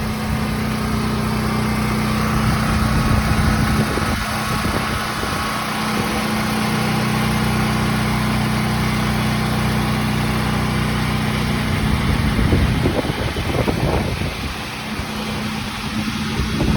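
DuroMax XP10000HX portable generator's single-cylinder engine running at a steady speed, with wind noise over it. In the last few seconds, gusts of wind on the microphone grow and cover the engine hum.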